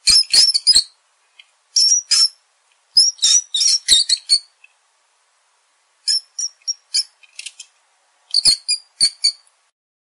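Rats squeaking: shrill, rapid squeaks with short pitch slides, in about five quick bursts separated by brief pauses.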